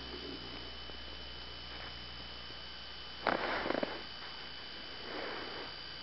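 A person sniffing sharply once about three seconds in, and more faintly about two seconds later, over a steady low hum.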